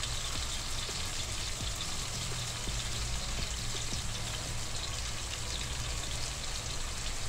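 Tomato slices frying in hot oil in a nonstick pan: a steady sizzle with fine crackles.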